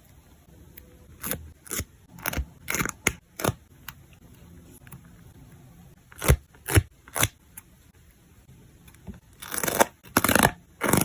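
Journaling paper-craft sounds: a string of short, crisp paper and sticker snips and crackles in uneven groups, then a longer rustling of paper about nine and a half seconds in.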